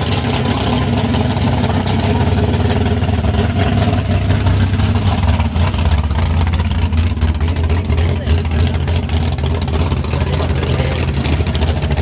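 Truck engine running steadily with a deep low hum, at an even level throughout.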